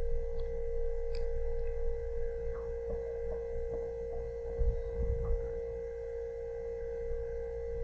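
A steady, unbroken pure tone drones on one pitch over a low rumble. A few faint soft bumps come about five seconds in.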